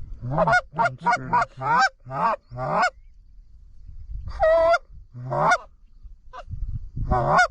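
Canada goose honking and clucking, loud and close: a quick run of about seven short clucks, then a few longer single honks with pauses between. These are the calls heard at a goose hunt as a flock is worked in toward the decoys.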